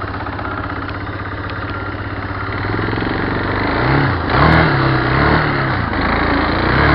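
A vehicle engine running steadily, then revved up and down several times in the second half.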